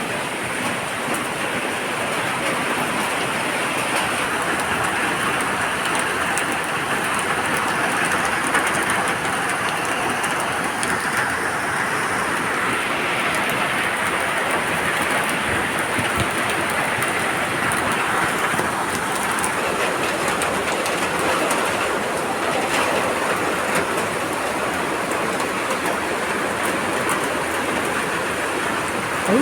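Heavy monsoon-like rain falling steadily: a dense hiss with small ticks of individual drops landing.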